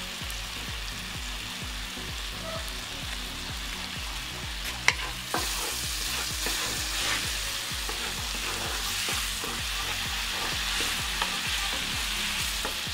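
Grated tomatoes sizzling in a hot cast-iron skillet while a wooden spatula stirs them. There is one sharp click about five seconds in, and the sizzling gets louder from then on.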